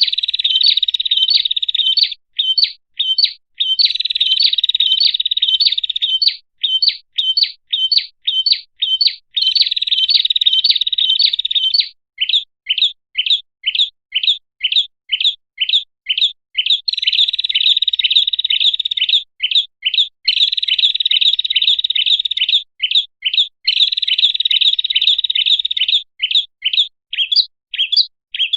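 Prenjak (prinia) lure call: quick series of sharp, high chirps, about three or four a second, alternating with dense trilled passages a few seconds long.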